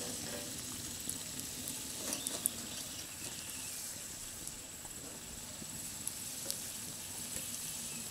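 Pawpaw pocket pies frying in oil in a skillet: a steady, gentle sizzle with a few faint clicks.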